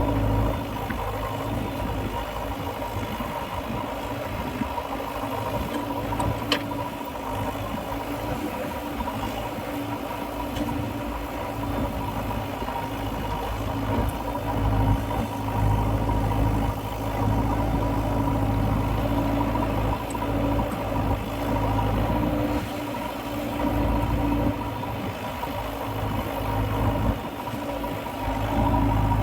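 JCB 3DX backhoe loader's diesel engine running steadily, growing louder in stretches, with a single sharp click about six and a half seconds in.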